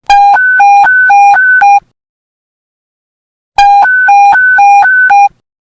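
Police panic button alert tone: a loud electronic two-tone beep, switching rapidly between a low and a high pitch about four times a second. It sounds in two bursts of just under two seconds each, with a pause between them.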